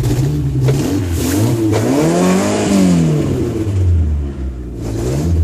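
1997 Geo Tracker's 1.6-litre four-cylinder engine running just after a cold start from two months in freezing weather, revved twice: a short blip about a second in, then a bigger rise and fall about halfway through before it settles lower.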